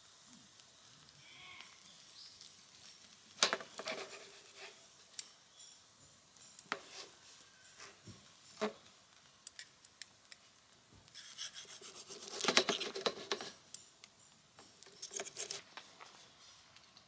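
Cooking gear being handled: intermittent scraping and rubbing with light clicks and knocks, loudest about three and a half seconds in and again around twelve to thirteen seconds in.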